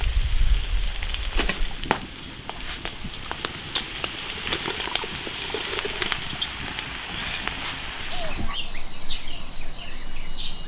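Pork cracklings sizzling in freshly rendered lard in an iron wok, with scattered pops; they are fried until browned and crisp. The sound is louder for the first couple of seconds, then settles to a steadier, quieter sizzle.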